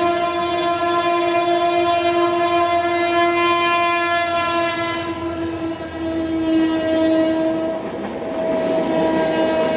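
Train horn sounding one long, steady blast that dips briefly twice, over the running noise of the passing train.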